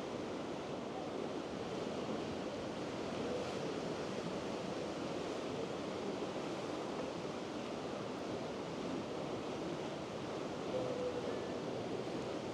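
Steady wash of sea surf with wind noise on the microphone.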